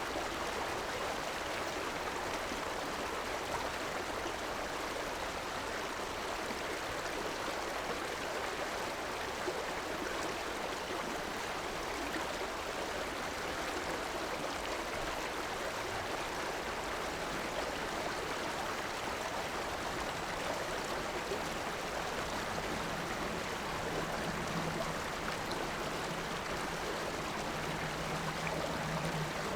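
River water flowing steadily over its bed, an even rushing sound. In the last few seconds a low steady hum joins in underneath.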